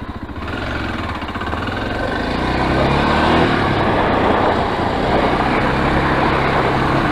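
Enduro motorcycle engine running while riding, growing louder over the first few seconds and then holding steady.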